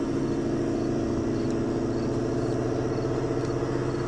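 Car engine idling steadily, a low even hum with no change in speed.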